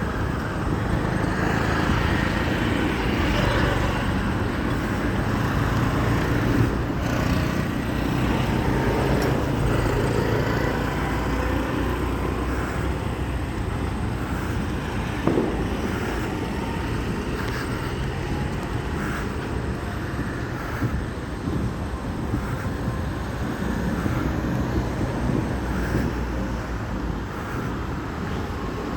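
Steady road-traffic noise with a low engine rumble from passing vehicles.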